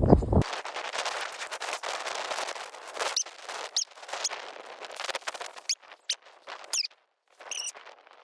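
Crunching and rustling of footsteps through snow and brush, a dense crackle of quick clicks that thins out after about five seconds, with several short high chirps scattered through the second half.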